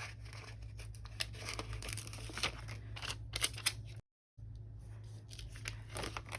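Scissors snipping paper in a run of short, crisp cuts, with the sound cutting out completely for a split second about four seconds in.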